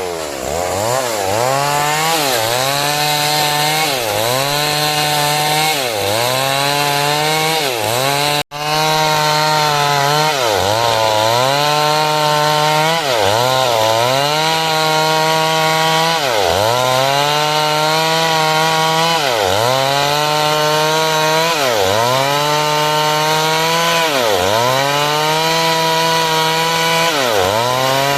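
Two-stroke chainsaw running at high revs while cutting wood, its engine note dipping under load and recovering about every second and a half. The sound drops out for an instant about eight seconds in.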